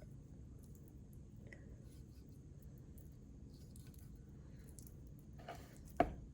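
Raw chicken breast being trimmed on a cutting board: faint cutting and handling noises, then a sharp knock near the end.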